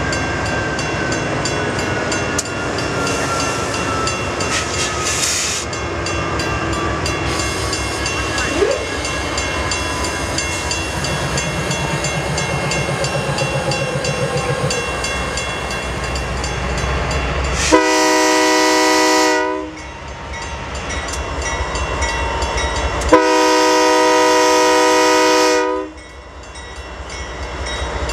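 Diesel freight locomotives and cars rolling past on the rails, a steady rumble, then the lead locomotive's horn sounds two long blasts in the second half.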